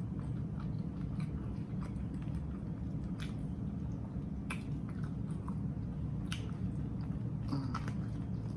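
A person chewing a mouthful of chopped grinder sandwich, with scattered wet clicks and crunches from the bread, over a steady low hum.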